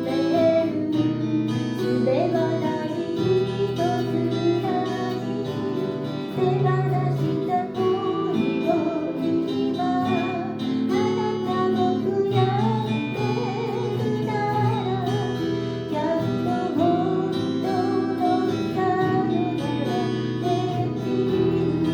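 Acoustic guitar playing a song, strummed and picked, with a singing voice carrying the melody over it.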